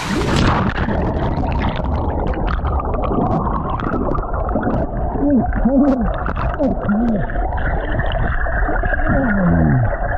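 Muffled underwater sound from a camera plunged into a cold creek pool: a dense rumble and gurgling of churned water, the high end cutting off suddenly at the plunge. A few muffled wavering tones come through in the second half.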